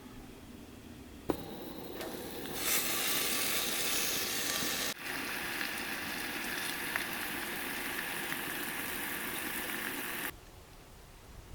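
Food frying in a pan: a click, then a steady sizzle that builds quickly and stops abruptly near the end. The breakfast being cooked is crab cakes and eggs.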